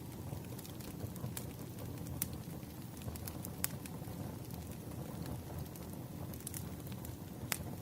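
Firewood burning: a steady low rumble of flames with scattered sharp crackles and pops, one louder pop near the end.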